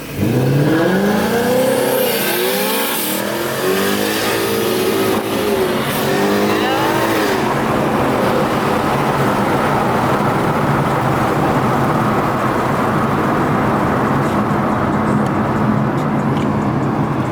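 Car engine revving hard on an acceleration run, rising in pitch three times as it climbs through the gears, then running steadily at speed.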